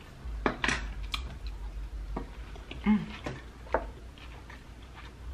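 Close-up chewing of a sushi roll with a crunchy crumb coating: scattered crunches and wet mouth clicks, with a short closed-mouth "mm" hum about three seconds in.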